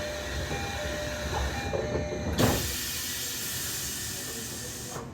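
Tokyo Metro 13000-series train at a station stop as its doors close: short repeated chime beeps over a steady air hiss, a thud about two and a half seconds in, then a louder hiss of compressed air that cuts off suddenly near the end.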